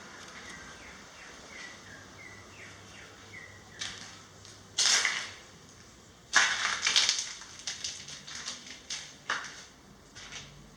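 A run of faint short chirps, then loud crunching and rustling noises in irregular bursts, once about five seconds in and again from about six to nine and a half seconds.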